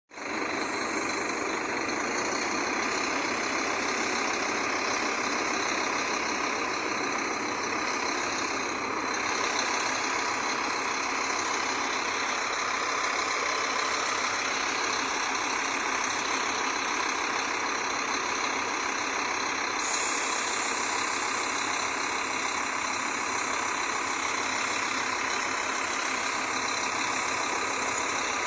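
Scania bus engine running steadily. A higher hiss comes in about two-thirds of the way through.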